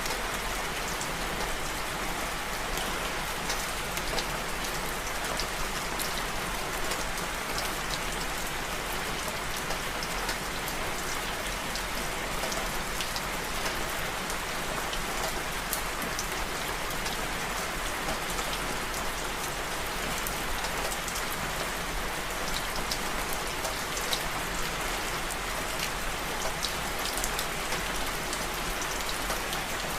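Steady rain falling and pattering on a surface, with many separate drop ticks over an even hiss.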